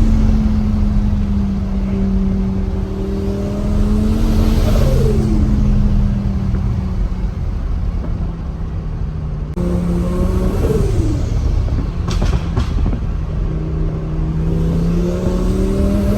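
Twin-turbo Audi R8 engine pulling under acceleration. The revs climb slowly and then drop sharply three times, like upshifts. A few sharp clicks come a little past the middle.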